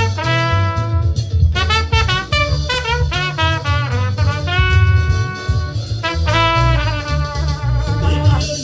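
Trumpet playing a praise melody, quick runs of notes alternating with long held notes, over a backing track with a heavy bass.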